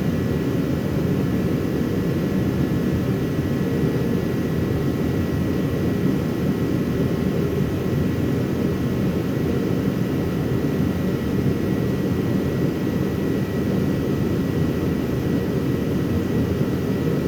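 Shop heater running: a steady rushing hum with a faint high whine over it.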